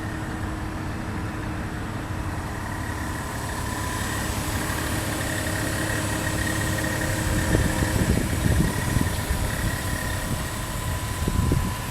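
Volkswagen Touareg's 3.2-litre V6 idling steadily. A louder low rumble comes in about two-thirds of the way through and again briefly near the end.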